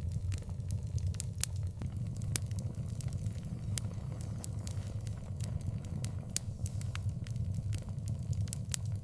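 Wood fire crackling, with irregular sharp pops and snaps over a steady low rumble of the burning fire.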